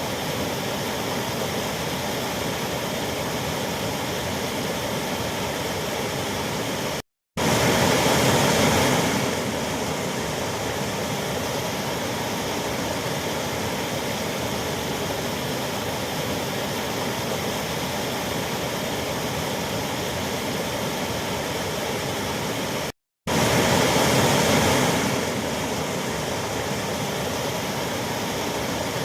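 Waterfall rushing: a steady, even roar of falling water. It cuts out for a split second twice, each time coming back a little louder for about two seconds.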